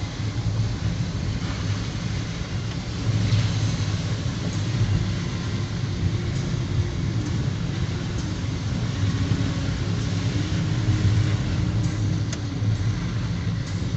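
A motor vehicle driving, its engine and road rumble running steadily with small rises and falls.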